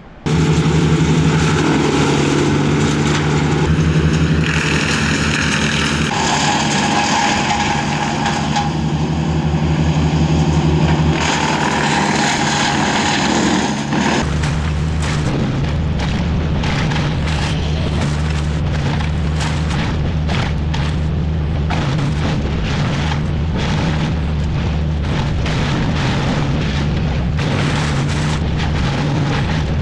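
A machine engine running steadily and loudly, starting abruptly. About 14 seconds in, the sound changes to a rough, rapidly crackling texture over the same engine tone.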